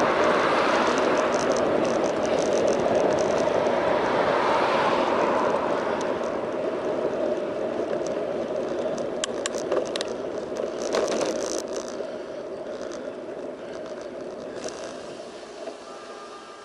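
Rolling and wind noise from a bicycle being ridden, picked up by an action camera mounted on the bike. The noise fades steadily as the bike slows. A few sharp clicks and rattles come about two-thirds of the way in.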